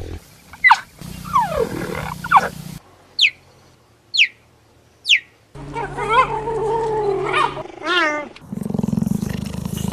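A series of separate wild animal calls, with three short high falling calls about three, four and five seconds in, and longer wavering calls after them.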